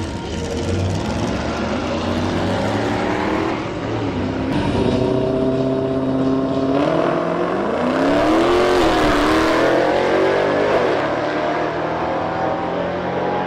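Car engine accelerating hard, its pitch climbing in stages as it runs through the gears.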